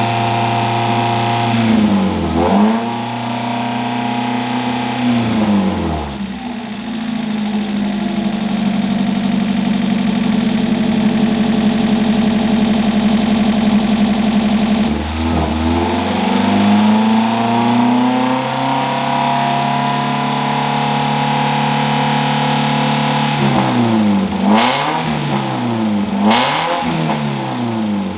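Freshly rebuilt Mazda Miata inline four-cylinder engine running during its first start-up and break-in. Its revs are held up, dipping and climbing back several times, with a run of quick blips of the throttle near the end.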